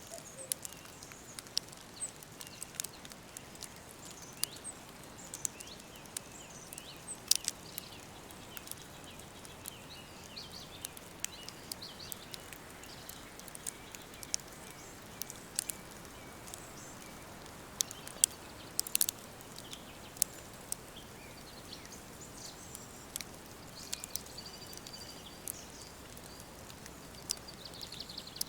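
Woodland ambience: birds chirping now and then over a steady hiss, with frequent sharp, irregular crackling clicks, the loudest a little before halfway and again a little past halfway.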